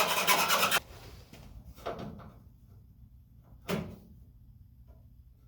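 Hand file rasping in quick strokes, stopping abruptly under a second in. Then two knocks as parts or tools are handled, a soft one about two seconds in and a sharper, louder one just before four seconds.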